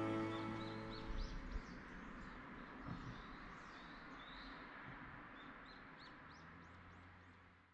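Gentle background music fading out in the first second or so, then faint birdsong: many short rising chirps over a soft outdoor hiss. It fades steadily and stops just before the end.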